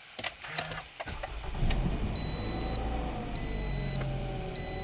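A 2018 Toyota RAV4's 2.5-litre four-cylinder engine starting up after an oil change and settling into idle, after a few clicks. From about two seconds in a dashboard chime beeps roughly once a second.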